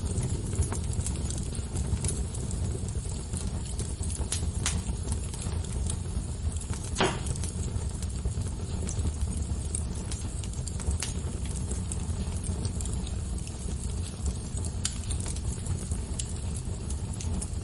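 Wood fire crackling over a steady low rush, with scattered sharp pops and one louder snap about seven seconds in.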